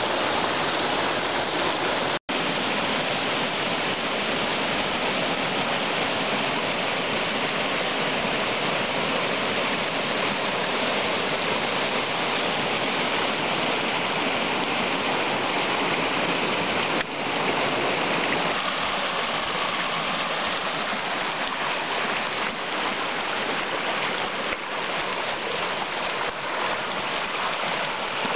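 Floodwater rushing steadily in a swollen creek, a continuous wash of water noise that cuts out for an instant about two seconds in.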